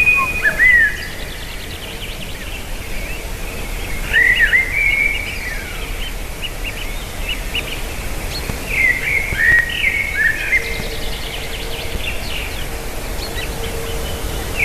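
Bird calls in three bouts: quick runs of high whistled chirps mixed with short down-slurred calls.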